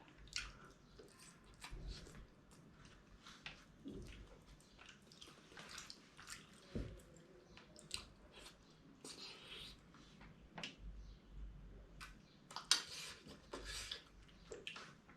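Faint eating sounds as dhido and fish gravy are chewed: scattered wet smacks and mouth clicks, with a sharper click about 13 seconds in.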